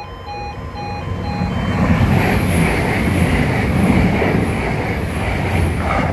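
Northern Ireland Railways diesel multiple unit passing at speed, with a rising rumble and rush of wheels that is loudest from about two seconds in until it falls away at the very end. In the first second or so the level crossing's two-tone warning alarm is heard beeping in an even alternating rhythm, before the train drowns it out.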